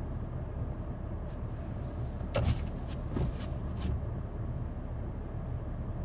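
Steady low rumble of idling vehicle engines, with a cluster of sharp clicks and knocks in the middle, the loudest about two and a half seconds in.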